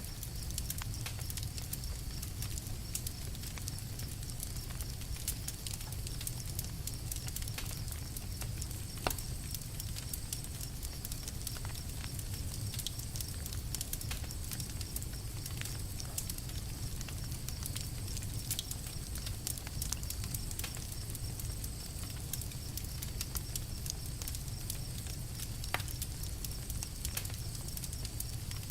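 Campfire crackling: scattered sharp pops and snaps, a louder crack about nine seconds in and another near the end, over a steady low rumble.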